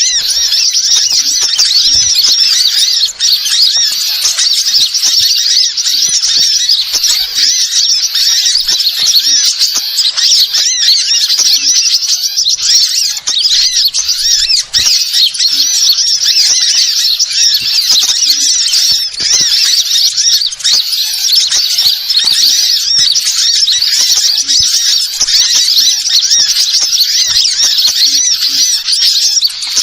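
Small songbirds chirping and twittering continuously in a dense, high-pitched, overlapping stream without pause, a bird-lure (pikat) call recording.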